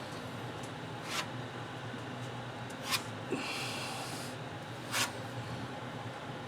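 Three short, sharp scrapes about two seconds apart and one longer hissing scrape in between, from tool strokes on the steel front fender, over a steady low shop hum.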